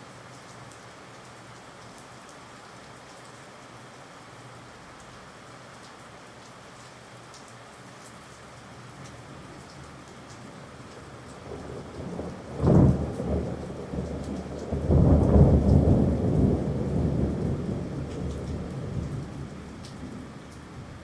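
Steady rain falling, then a thunderclap: a sharp crack a little past halfway, followed by a long rumble of thunder that slowly fades.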